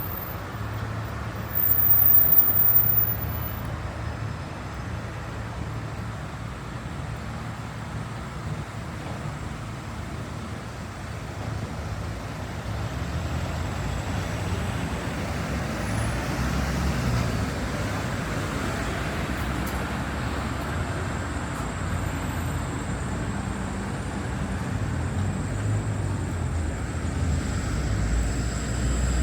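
Street traffic: motor vehicles running past with a steady rumble and road noise, and a brief louder surge about two seconds in.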